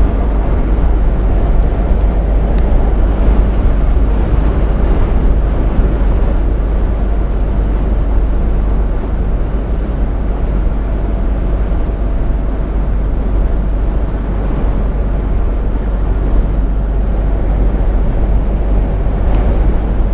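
Steady engine drone and road noise inside a moving lorry's cab at cruising speed, with a strong low rumble underneath.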